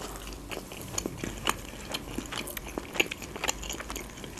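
A person chewing a mouthful of Turkish pide: the crust crunches and the mouth makes wet clicks, in irregular crackles, louder about a second and a half and three seconds in.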